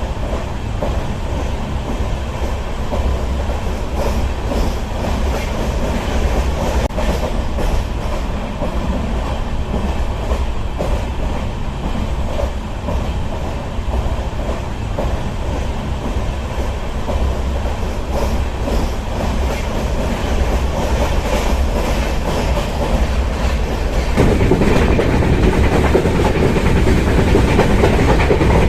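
Running noise of a moving Indian Railways passenger train heard from on board: a steady low rumble with the wheels clattering over the rails. It grows louder about 24 seconds in.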